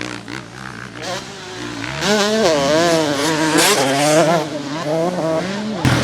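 Motocross dirt bike engines revving, the pitch rising and falling as the throttle is worked, louder from about two seconds in. A short loud burst of noise comes just before the end.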